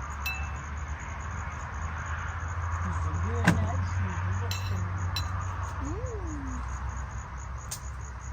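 Insect chirping steadily, about four high chirps a second, over a low rumble and hiss, with a few sharp clicks, the loudest about three and a half seconds in.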